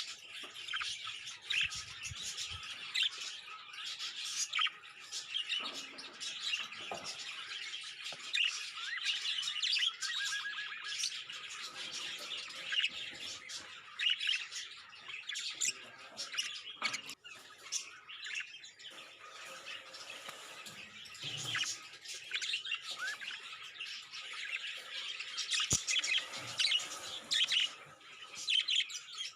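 Budgerigars chirping and chattering without pause, a dense stream of short, quick chirps with the odd squawk.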